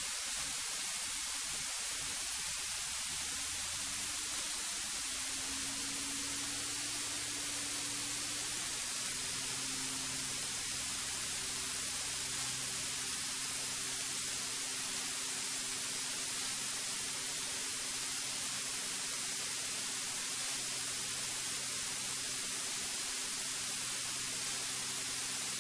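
Steady hiss of a cockpit intercom audio feed, with the Cirrus's engine hum faint beneath it, stepping up in pitch a few seconds in as power comes on.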